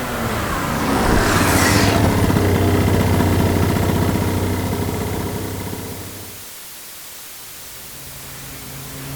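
Motorcycle riding past: its engine note drops in pitch as it goes by about a second and a half in, then fades away. After a short lull, another engine starts to come in near the end.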